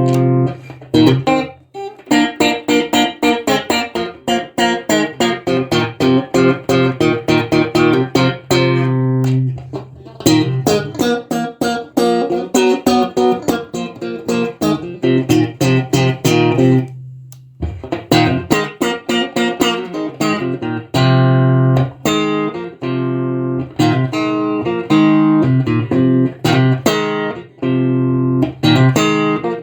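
A 1976 ash-body Stratocaster-style electric guitar played solo: quick runs of picked notes and chords, breaking off briefly twice, once just under 2 seconds in and again around 17 seconds in.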